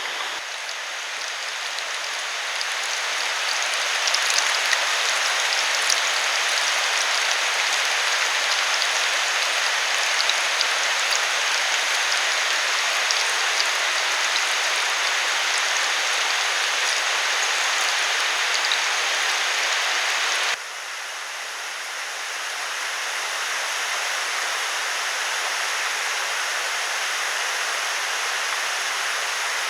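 Steady rushing water noise with faint light ticks in it. It drops suddenly about two-thirds of the way through, then slowly builds again.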